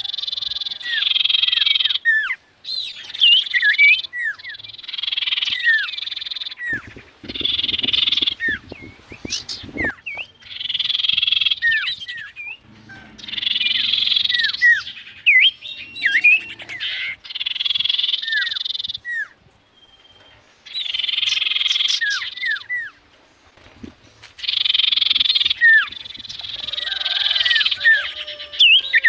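Sirtu owl calling: harsh, hissing screeches about one to two seconds long, repeated every few seconds, with short down-slurred whistled notes between them.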